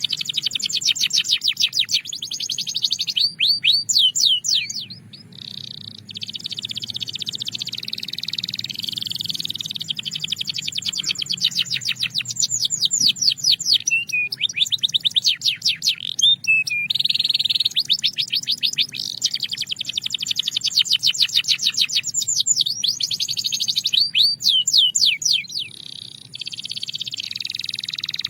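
Belgian canary singing: a continuous run of fast trills and rolls, each phrase a rapid string of repeated high notes, with short breaks about five seconds in and shortly before the end.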